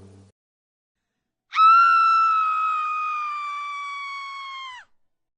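One long, shrill scream sound effect, starting about a second and a half in. It is held on a single pitch that sinks slightly for about three seconds, then stops abruptly.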